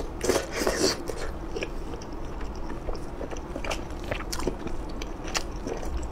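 Close-miked biting and chewing of crunchy skewered food: a dense burst of crunching in the first second, then scattered crisp crackles and clicks as the chewing goes on.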